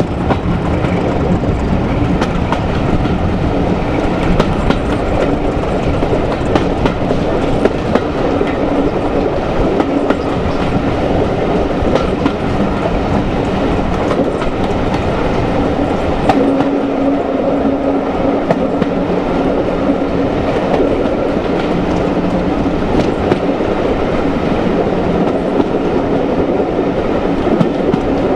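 Diesel-hauled passenger coaches running at speed, heard from an open window near the rear of the train: a steady rumble and rush with the clickety-clack of wheels over rail joints, and a faint engine drone from the Class 26 locomotive underneath.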